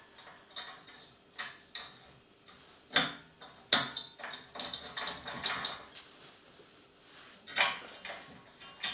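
Scattered metallic clinks and knocks of steel stove parts being handled as bolts are started by hand on the assembly, the loudest about three seconds in, just before four seconds, and about seven and a half seconds in.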